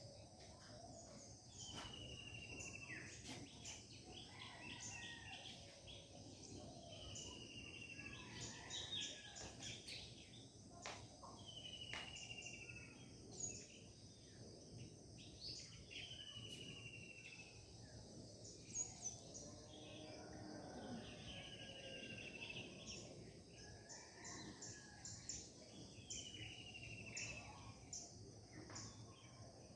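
Several birds singing in the early morning, faint, one of them repeating a short falling whistled phrase every three to four seconds among other chirps and trills, over a steady high hum of insects.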